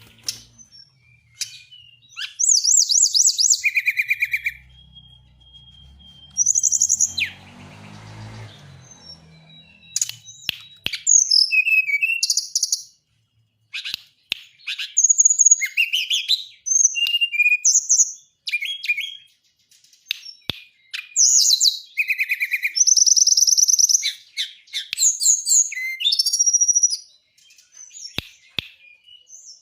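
Tame songbird singing actively in repeated bursts of rapid, high-pitched trills and chirps, separated by short pauses.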